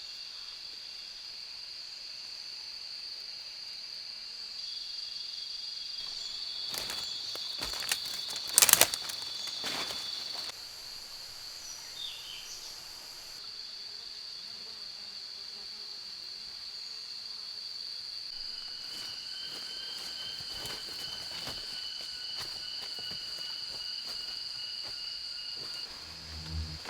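Rainforest insects droning steadily at one high pitch, with a second fainter trill joining for stretches. A few sharp knocks break in, the loudest about nine seconds in, and lighter taps come later.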